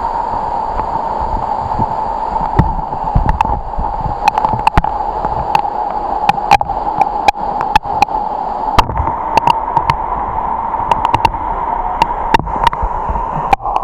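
Waterfall's rushing water, a loud steady roar, with frequent sharp clicks and knocks throughout.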